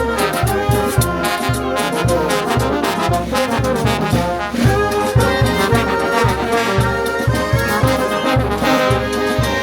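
Brass band playing: trumpets and trombones sound a melody in harmony over a steady, low, repeating bass beat.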